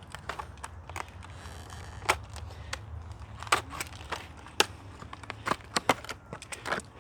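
Knife cutting open the plastic and cardboard packaging of a new tool set, with many sharp cracks and crinkles as the plastic is cut and pulled apart.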